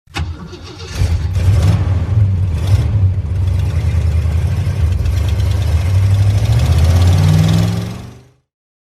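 Off-road vehicle engine running with a deep steady drone, rising in pitch about seven seconds in, then fading out to silence.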